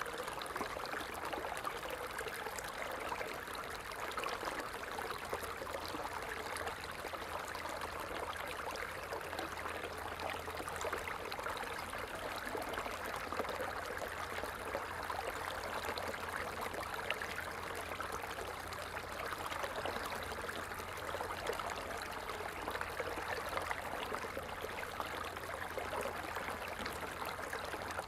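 Water falling and splashing in a steady, unbroken rush.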